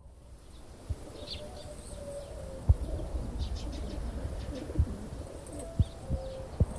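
Racing pigeons cooing, low wavering calls, with a few sharp thumps, the loudest about a third of the way in.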